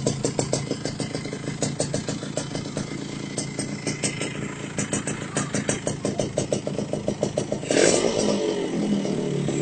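Yamaha RX-King two-stroke single-cylinder motorcycle engine running at idle through its exhaust, with an even popping pulse of about five or six beats a second. About eight seconds in the engine note gets louder and fuller.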